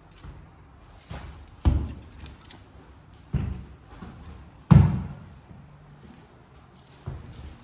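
A handful of dull thuds and knocks at irregular intervals, about five in all; the loudest comes a little past the middle.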